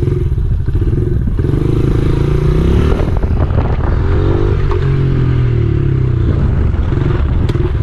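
Honda XR70R pit bike's small single-cylinder four-stroke engine running, revving up and dropping back several times.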